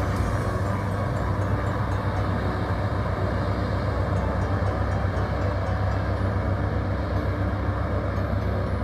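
Pratt & Whitney Canada PT6A-66B turboprop engines running steadily, a constant low drone.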